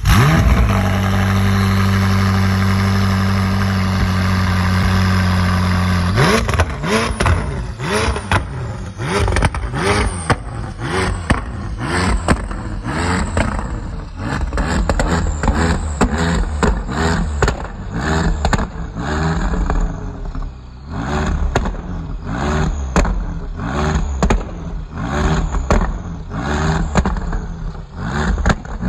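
McLaren 600LT's twin-turbo V8 starting with a flare, then holding a steady raised idle for about six seconds. From there it is revved over and over with short throttle blips, roughly one a second, each rising and falling back.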